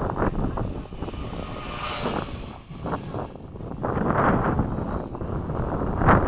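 Mini B-17 RC model's electric motors and propellers, a high whine that swells as the plane passes, loudest about two seconds in, then fades. Wind buffets the microphone throughout with a gusty rumble.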